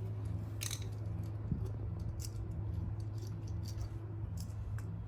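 Scattered light metallic clicks and clinks of small tools and minibike carburetor parts being handled, over a steady low hum.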